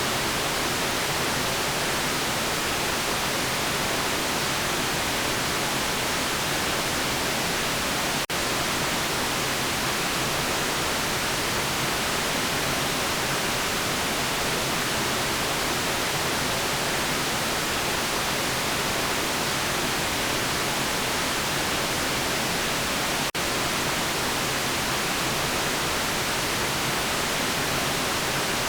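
Steady white noise, an even hiss at constant level. It drops out very briefly twice, about eight seconds in and again about fifteen seconds later.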